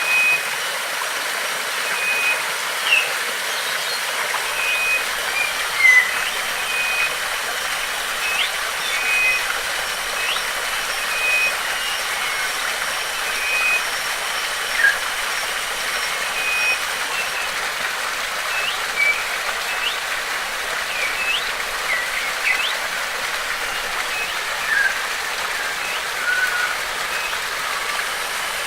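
Steady hiss of rushing water, with small birds chirping over it: short repeated whistled notes and quick rising chirps scattered throughout.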